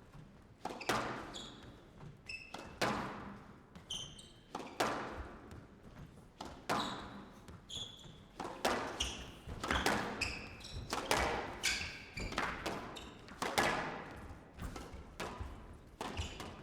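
Squash rally: the ball cracking off rackets and walls, a sharp hit every half second to a second, each ringing briefly in the hall, with shoes squeaking on the court floor between hits.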